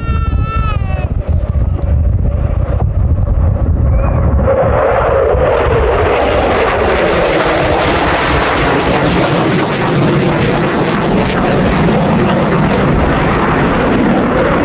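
Jet noise of a JASDF F-15 fighter's twin turbofan engines swelling from about four seconds in as the jet flies past. A tone in the noise falls steadily in pitch as it goes by.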